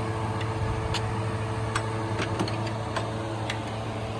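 Irregular sharp metallic clicks of hand tools on engine parts, about seven in four seconds, over a steady low hum.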